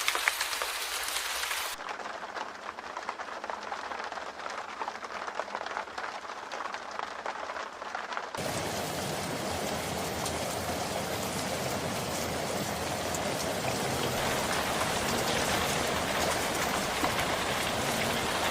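Heavy rain in a storm, a dense steady hiss, with the sound changing abruptly about two seconds and eight seconds in as the footage cuts.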